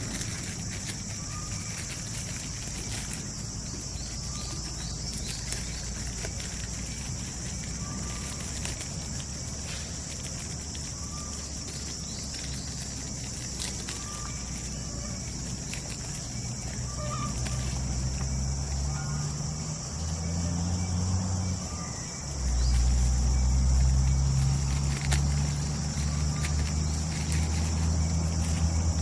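Tropical forest night ambience: a steady high insect drone with a short call repeating about every two seconds. From about halfway a low motor drone comes in, stepping up in pitch and becoming the loudest sound after about twenty-two seconds.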